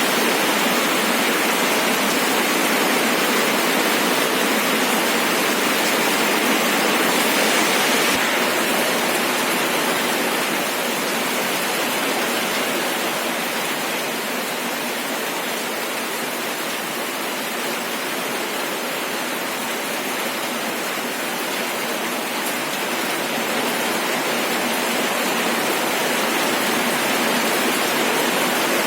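Steady rain falling, an even hiss of many drops with no single drop standing out. It eases slightly in the middle and picks up again near the end.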